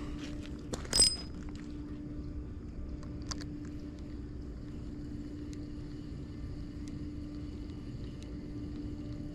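A boat motor running with a steady low hum, and one sharp click about a second in.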